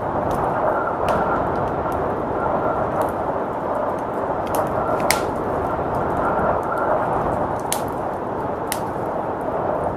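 Wood fire crackling, with sharp irregular pops, the loudest about halfway through, over the steady rush of blizzard wind with a faint whistle.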